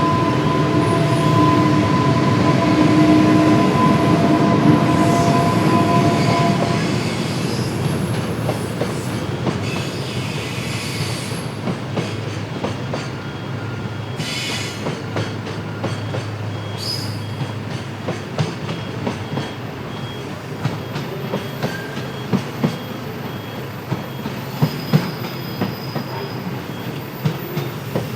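Electric-hauled freight train passing: the locomotive's steady multi-tone whine over a loud rumble stops about seven seconds in. A long line of freight wagons follows, their wheels clicking over rail joints.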